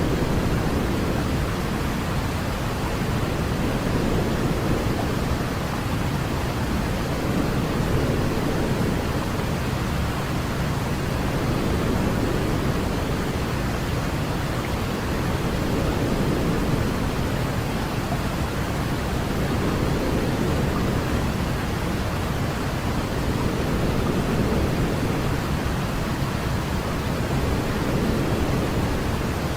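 Steady white-noise sleep track, a deep, even rushing hiss weighted toward the low end, with faint slow swells about every four seconds.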